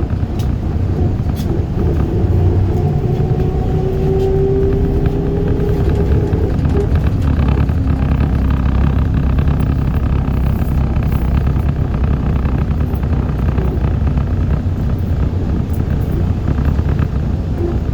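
ZiU-682G trolleybus in motion, heard on board: steady low running rumble, with the electric traction motor's whine rising gently in pitch over the first several seconds and returning near the end.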